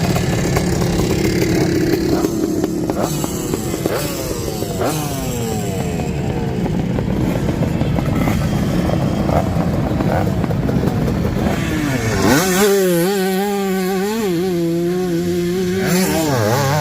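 Several vintage racing motorcycles running at high revs, their engine notes rising and falling as they pass and shift. About three-quarters of the way through, one machine close by dominates with a steady high engine note that wavers slightly up and down.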